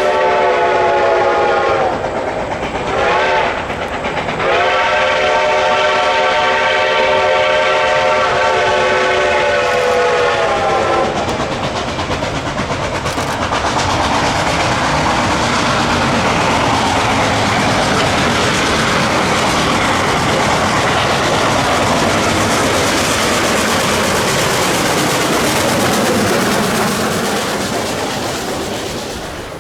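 Reading & Northern 4-8-4 steam locomotive 2102 blowing its chime steam whistle: a long blast, a short one and a longer blast of about six seconds. Then the locomotive and its loaded excursion train pass close by, with a steady rush of steam and wheel clatter that fades near the end.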